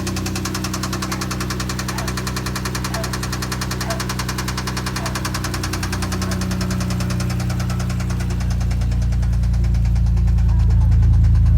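Toyota 1JZ-GE straight-six engine running with a fast, even knock, the sign of a spun bearing shell. After about six seconds the knocking grows fainter while the low engine note gets louder.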